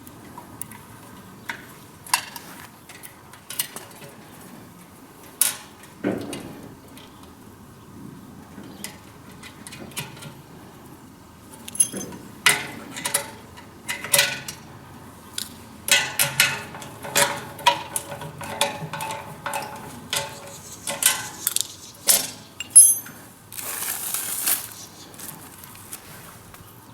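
Metal fasteners and tools clinking and knocking during hand assembly of a grain-heap aeration fan: irregular sharp clinks and taps, busier in the second half, with a brief scraping rasp near the end.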